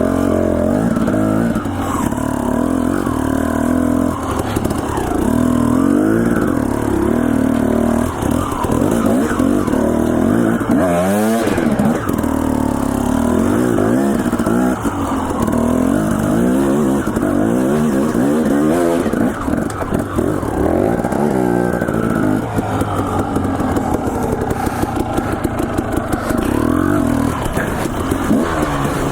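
Dirt bike engine running under constant throttle changes, its pitch rising and falling again and again, with a quick sharp rev about a third of the way in.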